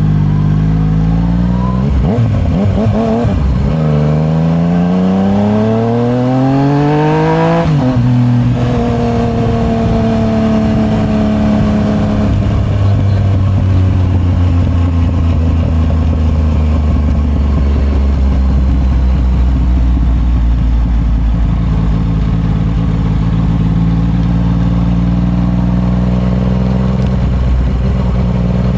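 Yamaha MT-09's inline three-cylinder engine accelerating through the gears: the pitch climbs, breaks briefly about two seconds in, climbs again to a peak near eight seconds and drops sharply at an upshift. It then settles into a steady cruise for the rest of the time.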